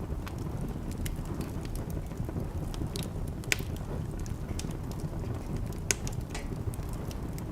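Wood fire burning in a fireplace: a steady low rumble with scattered crackles and pops, two of them sharper, about three and a half and six seconds in.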